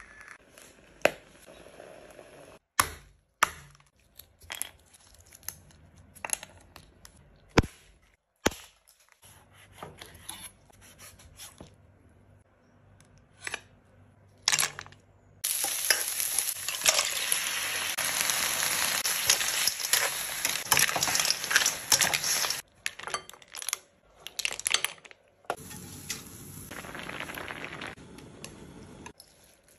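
Abalone being cooked: a run of sharp knocks and chopping taps, then about halfway in a loud sizzle of frying that runs for several seconds, and a quieter sizzle near the end as the abalone slices cook in a hot pan.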